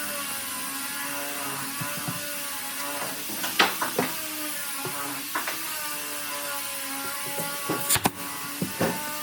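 An electric power tool motor running steadily, its pitch wavering slightly as it works the wood. Scattered sharp knocks and taps sound over it, with a cluster near the end.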